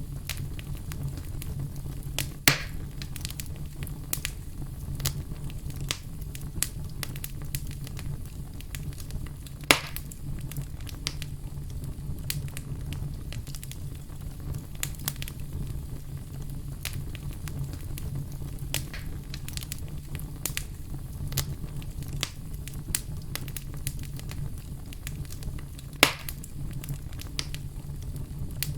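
Wood fire crackling over a steady low rumble, with frequent small snaps and three louder pops: about two seconds in, near ten seconds, and near the end.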